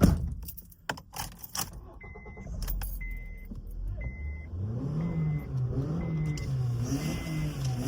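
A loud thump, then a few rattling clicks. A car's warning chime then beeps about once a second, six times. About four and a half seconds in, a car engine comes up in pitch and keeps running, its note rising and falling.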